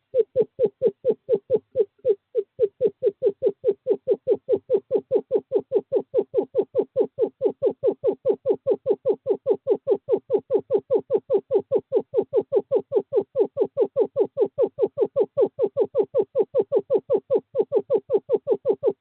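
Male screech owl giving a long, steady trill of short hoots, about five a second on one pitch, with a brief pause about two seconds in: a courtship call to a female.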